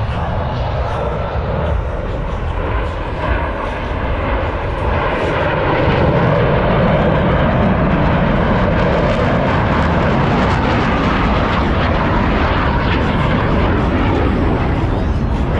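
Jet noise from F/A-18 Super Hornets in flight, with their twin turbofan engines. The noise grows louder about six seconds in and then holds steady and loud.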